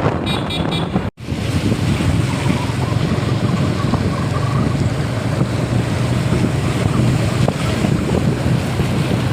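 Wind rushing over the microphone of a moving motorbike, with a steady low engine hum underneath; the sound drops out for an instant about a second in.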